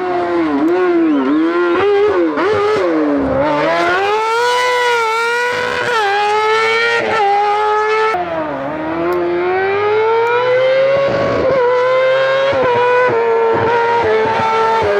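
Competition car's engine at high revs, its note dipping quickly several times in the first two seconds, then climbing and dropping repeatedly as it is driven hard through the gears.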